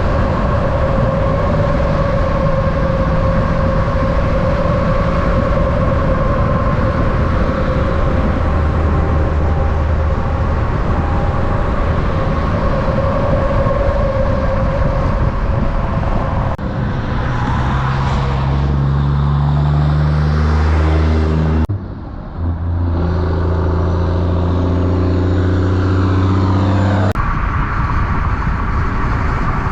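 Heavy diesel trucks on a highway: steady traffic and tyre noise with a fixed whine. After abrupt cuts about 17 and 22 seconds in, a truck's diesel engine comes in loud with a strong low, steady note.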